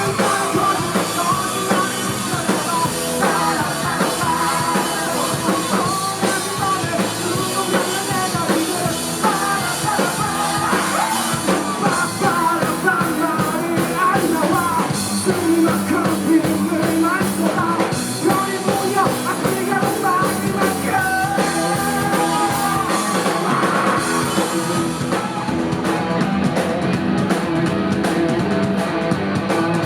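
Live rock band playing at full volume: drum kit and amplified instruments under a lead vocal that sings through much of the passage.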